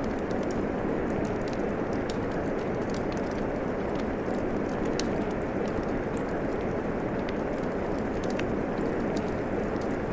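Steady rain hissing evenly, with scattered sharp crackles and pops from a wood fire.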